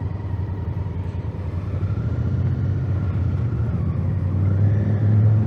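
Honda Africa Twin's 1000cc parallel-twin engine running, a steady low drone that grows louder over the last couple of seconds.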